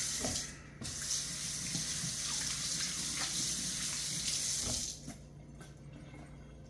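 Water running from a tap into a sink: a short burst, then a steady flow for about four seconds that is shut off near the end.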